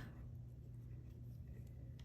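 Faint scratching and light ticks of knitting needles and yarn as a purl stitch is worked, over a low steady hum.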